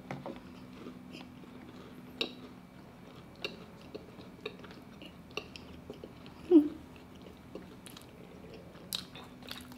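Close-up chewing of soft KFC buttermilk biscuits, with scattered small wet mouth clicks and smacks. A short hummed "mm" comes about six and a half seconds in.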